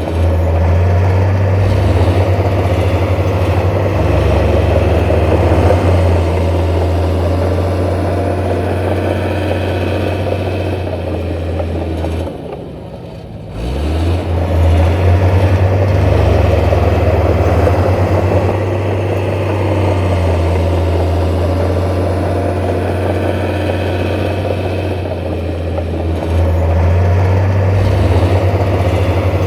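Heavy diesel engine of earthmoving machinery running steadily. About twelve seconds in it drops away for a second or two, then its pitch rises as it picks up again.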